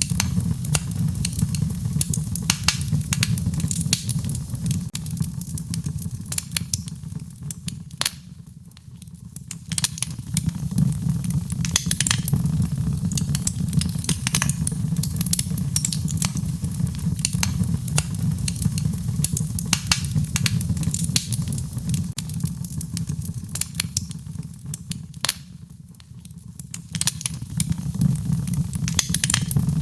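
Wood fire crackling and popping in a fireplace, with many sharp snaps over a steady low rumble of the flames. The fire quietens briefly twice, about eight seconds in and again about twenty-five seconds in.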